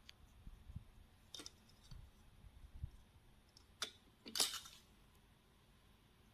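A few faint, scattered clicks and light knocks, the loudest about four and a half seconds in, over quiet room noise.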